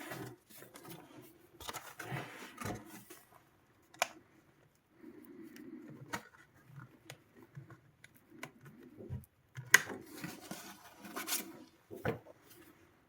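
Irregular scraping and rubbing with scattered sharp clicks and snaps as a Sonos Playbar's casing is pried at by hand; the loudest snap comes about ten seconds in.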